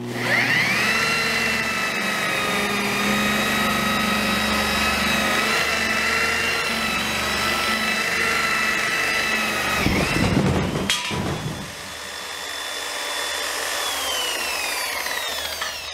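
Electric buffer/polisher with a worn foam pad buffing a canoe hull. The motor spins up at the start and runs with a steady whine. The whine breaks off about ten seconds in, and the motor winds down with a falling pitch near the end.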